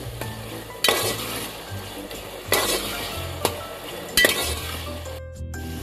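Minced mutton sizzling as it fries in oil in a metal pot while a steel spoon stirs it. The spoon scrapes and knocks against the pot four times, and the sound cuts out briefly near the end.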